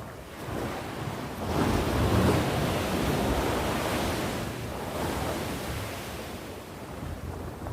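Sea waves breaking and washing onto the shore: one wave swells up about a second and a half in, peaks, then slowly draws back. Wind rumbles on the microphone.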